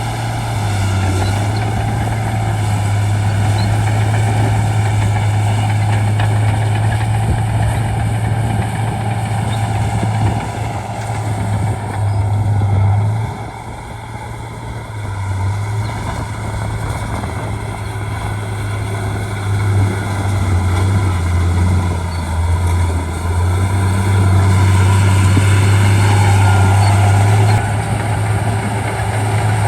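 Shantui D95 bulldozer's diesel engine running as it works, a steady low drone that shifts up and down in pitch with the load and eases off briefly about halfway through.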